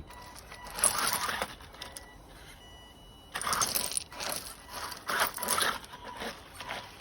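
Small electric WLtoys 12428 RC car driving up a climbing section of a crawler track in several short bursts: a faint electric motor whine under the clatter and scrabble of its wheels and plastic chassis on the track.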